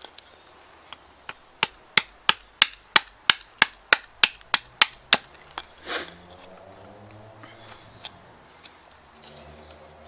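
Axe chopping a seasoned alder spoon blank on a chopping block: a quick run of sharp strikes, about three a second, that stops about five seconds in, followed by one duller, longer knock about six seconds in.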